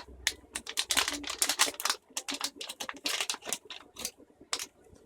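Packaging being handled: rapid, irregular rustling, crinkling and light clicking of small boxes and plastic bags. It is busiest in the first two seconds, then becomes sparser.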